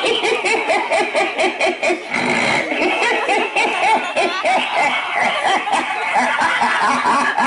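A performer laughing merrily and at length, a long rapid run of "ha-ha-ha" laughs repeating several times a second.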